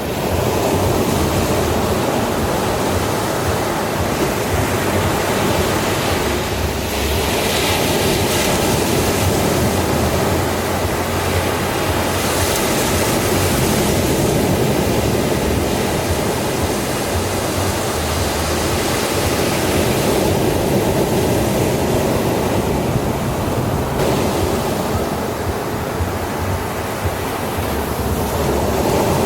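Ocean waves washing in a steady rush of surf, with slow swells of hiss every few seconds.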